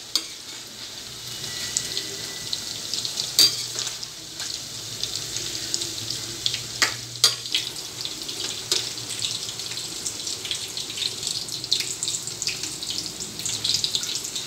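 Paneer cubes sizzling and crackling in hot oil in a steel kadhai, with a few sharp metal-on-metal clinks as a steel spoon lifts them out onto a steel plate.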